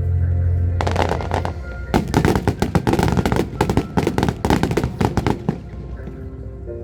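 Fireworks going off in a rapid barrage of many sharp bangs and crackles that begins about a second in and stops shortly before the end, over music with steady held tones.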